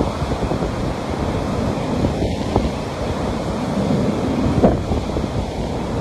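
Ocean waves washing onto a beach in a steady rush, with wind buffeting the microphone.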